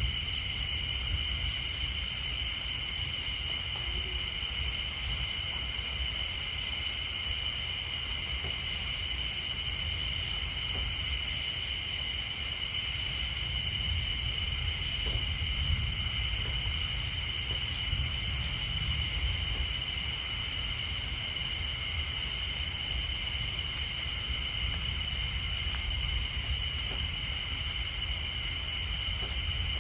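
Night chorus of insects and tree frogs: steady high-pitched trilling in several layers, with one higher call pulsing on and off about every two seconds, over a low steady rumble.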